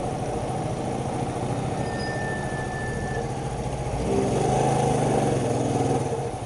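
Shineray 50cc motorcycle engine running at riding speed, its note growing louder about four seconds in and easing off near the end, with wind rushing over the helmet-mounted microphone.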